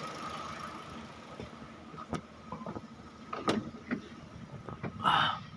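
Kia Rio engine idling steadily, its spark plugs freshly replaced and running without misfire, broken by a few sharp clicks and a short rustling noise near the end.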